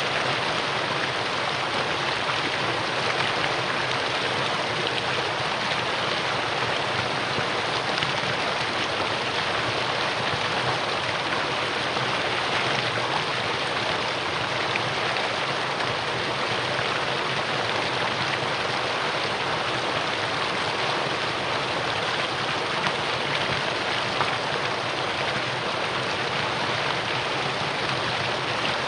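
Mountain valley stream flowing: a steady, even rush of running water with no breaks.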